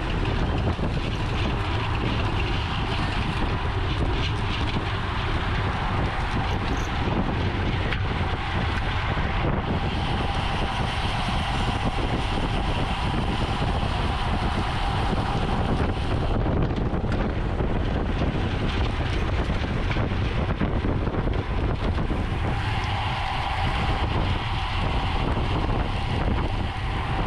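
Steady wind rushing over the microphone of a racing bicycle on the move, with a low rumble of tyres on the road.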